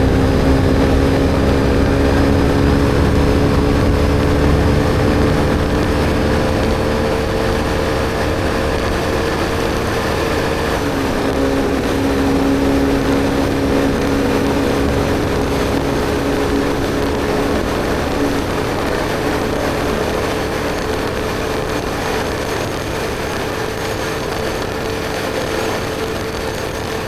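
BMW R1250GS Adventure's boxer-twin engine running through an Akrapovic slip-on exhaust while the motorcycle cruises, over steady wind and road rush. The engine note sinks slowly, with a small shift in pitch about eleven seconds in.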